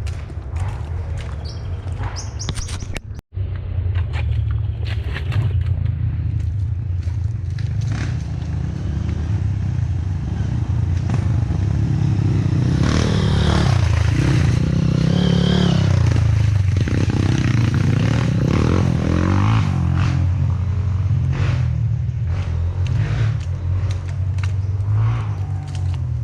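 Off-road trail motorcycle engines running and revving, pitch rising and falling repeatedly in the middle, with scattered clattering knocks.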